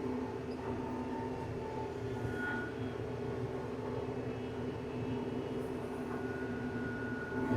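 TYM compact tractor running steadily with its PTO-driven flail mower: an even mechanical drone with several held tones over a low rumble.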